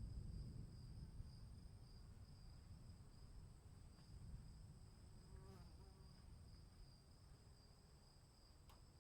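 Crickets trilling in a faint, steady night chorus, a continuous high-pitched ringing over a low rumble that slowly fades.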